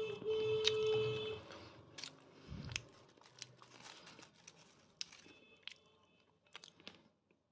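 Close-up chewing with many sharp, crisp crunches of food. A steady pitched tone with overtones sounds for about the first second and a half, then stops.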